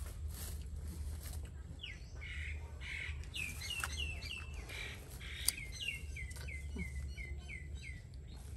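A bird chirping a quick series of short notes, each sliding quickly downward, several a second, starting about two seconds in.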